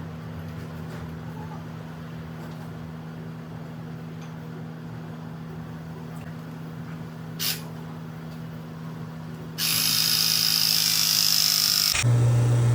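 A steady low hum with one sharp click about seven and a half seconds in. About ten seconds in, a Viega MegaPress press tool starts up loudly, pressing a fitting onto steel gas pipe, and its sound changes to a deeper, steady tone near the end.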